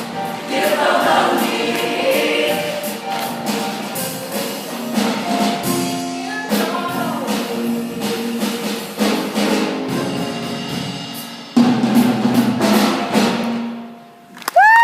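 A show choir singing in full harmony over a backing band with drums and percussion. The music dies away near the end, and a steady pitched tone starts just before it stops.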